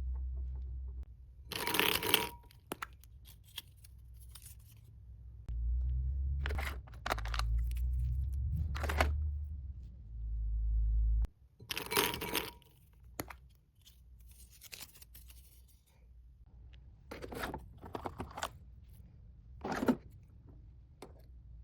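Packaging being handled: short bursts of paper or wrapping tearing and crinkling, about six over the span, with a low rumble of handling in between.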